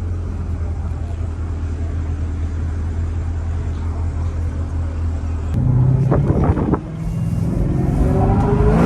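Supercharged V8 of a Camaro ZL1 1LE running steadily at low revs. About five and a half seconds in it gets louder and rough, then revs up under acceleration, its pitch climbing toward the end.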